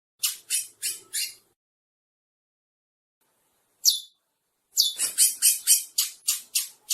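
Curió (chestnut-bellied seed finch) singing: clear, quick notes that each slide down in pitch. A run of four notes opens, then a pause, one lone note, and a fast run of about ten notes near the end.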